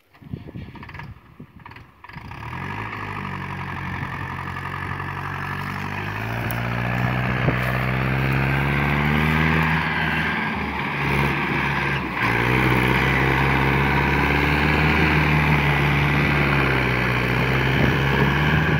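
Mahindra tractor's diesel engine running, starting up about two seconds in. Its pitch climbs over the next several seconds as it revs, dips briefly about eleven seconds in, then holds steady.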